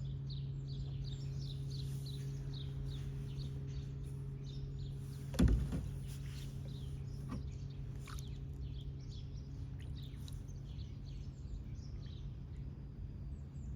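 Bird chirping in a quick series of short calls, about three a second, over a steady low hum. A single sharp knock comes about five and a half seconds in, and the chirping thins out after it.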